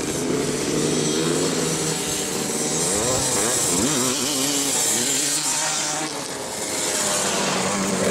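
Dirt bike engine running and revving, its pitch rising and falling repeatedly, with a brief drop in level about six seconds in.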